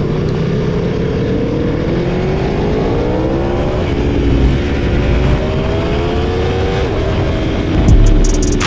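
Aprilia Tuono motorcycle engine pulling hard under heavy wind rush. Its pitch climbs, drops at a gear change about four seconds in, climbs again and drops once more near seven seconds. A deep surge of low rumble follows near the end.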